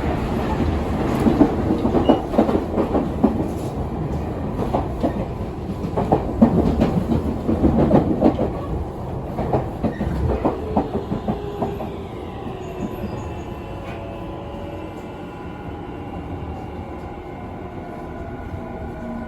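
Tokyu 5050 series electric train braking into a station. The wheels clatter over rail joints and points, then, about twelve seconds in, the clatter fades and the motors' whine takes over as several tones falling gently in pitch as the train slows.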